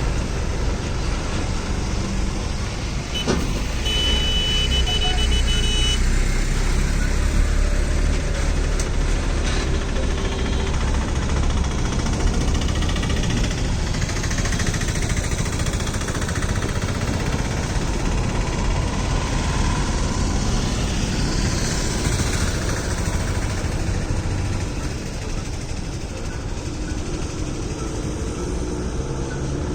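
Heavy loaded lorry engine running at low speed, a steady deep rumble with road noise. A brief high steady tone sounds about four seconds in.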